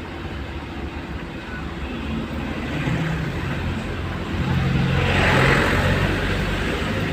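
Road traffic on a rain-wet street: a vehicle's engine running, with tyre hiss that swells to a peak about five seconds in as a vehicle passes close by.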